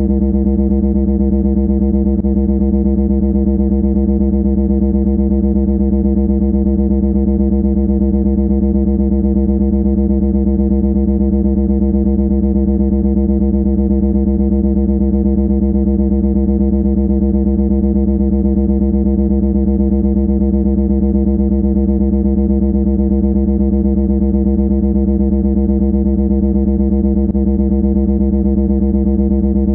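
A loud, steady electronic buzzing drone held at one unchanging pitch, with a fast, even flutter.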